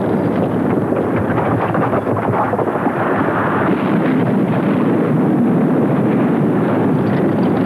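Steady, loud rumbling roar of a volcanic eruption, a dubbed soundtrack to footage of Vesuvius erupting.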